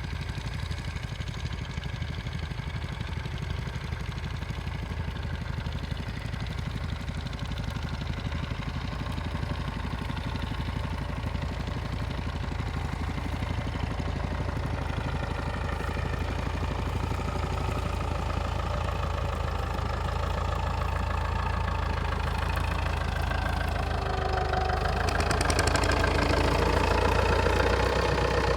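Tractor engine running steadily under load, gradually growing louder, most of all in the last few seconds.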